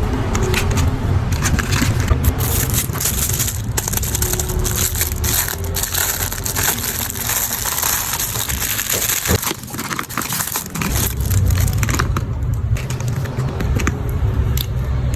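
Close-up crackling and rustling of objects being handled by hand, in dense irregular clicks, over a steady low rumble like passing traffic.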